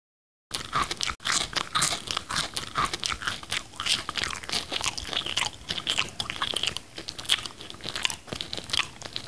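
Close-miked chewing of mango slices, with many small crisp crunching clicks of the mouth and fruit. It starts abruptly about half a second in.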